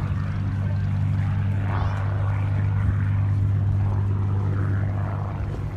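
Supermarine Spitfire's Rolls-Royce Merlin V12 piston engine running in a steady, deep propeller drone as it flies its display, growing a little louder toward the middle and easing off near the end. Crowd voices murmur underneath.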